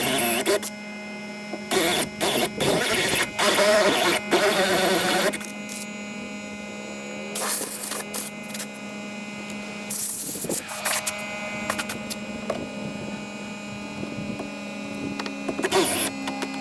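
A small electric motor whirring in short starts and stops, with clicks, over a steady hum.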